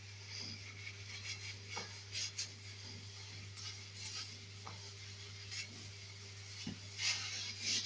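Faint rubbing and light knocks as a soapy sponge is wiped over a gas stove's glass and metal surface. Near the end, louder rasping scrubbing starts.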